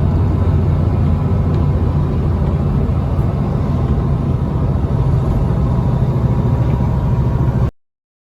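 Truck engine running with a steady low rumble, cutting off suddenly near the end.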